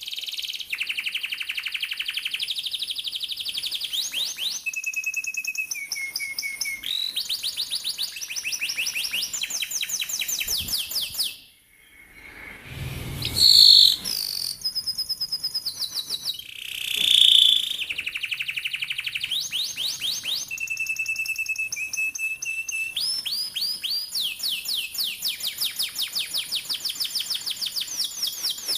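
Domestic canary singing long rolled trills, each a fast run of repeated notes, switching to a new pitch every second or two. The song breaks off briefly about halfway through, then resumes with two loud sharp notes before the trills carry on.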